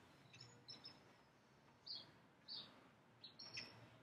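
Faint bird chirps: several short, high calls spread through near silence.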